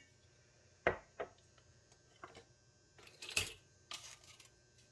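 Scattered light knocks and clinks of a spoon and kitchen containers, a few short ones spread over the seconds with one brief scrape in the middle.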